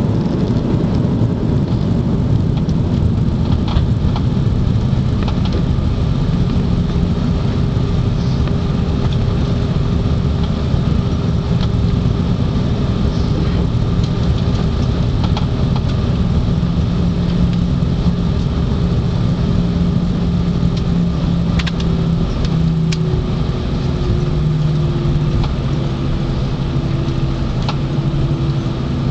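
Cabin noise of an Airbus A340 on the ground just after landing: a steady engine and rumble noise with a low hum whose pitch steps down about two-thirds of the way through, and a couple of sharp clicks.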